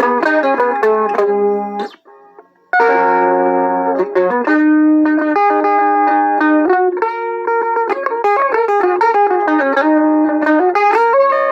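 A tune played on a Harmony electric mandolin, melody notes ringing one after another, with a brief break about two seconds in.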